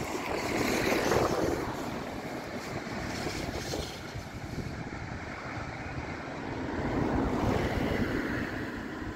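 Stadler FLIRT electric multiple unit rolling past and away along the track, loudest in the first couple of seconds, with wind noise on the phone microphone.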